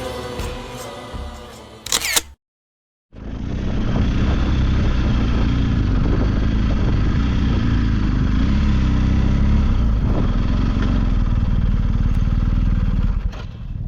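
Choral background music fading out, a brief cut to silence, then a motorcycle engine running steadily under loud wind noise while riding, which drops away just before the end.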